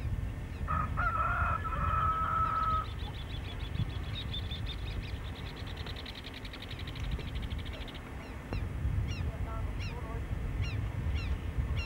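Birds calling outdoors: a drawn-out pitched call about a second in, then a fast trill, then a run of short chirps repeating about twice a second, over a steady low rumble.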